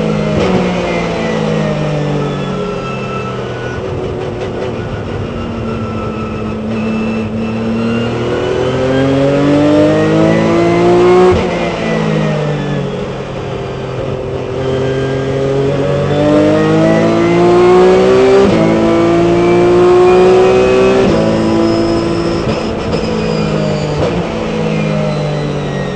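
Onboard sound of a Porsche 997 Cup race car's flat-six engine, revving up through the gears with sudden drops in pitch at the upshifts, and long falling stretches as the car slows for corners.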